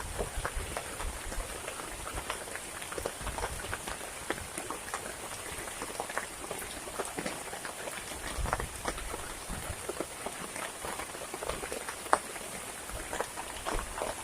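Heavy rain falling, with many separate drops pattering close by in a dense, irregular patter.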